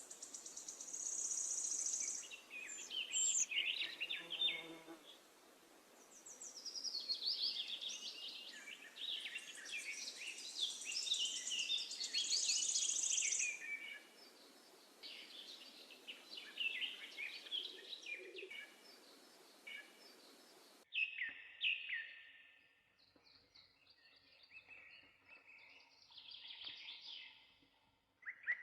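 Many songbirds chirping and trilling together over a steady hiss. The hiss stops abruptly about two-thirds of the way through, leaving fainter, scattered bird calls.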